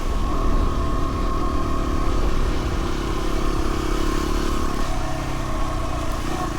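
Dual-sport motorcycle engine running steadily at low revs.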